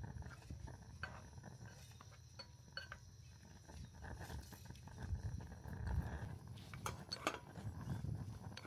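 Scattered light clinks and taps of utensils against dishes over a low rumble.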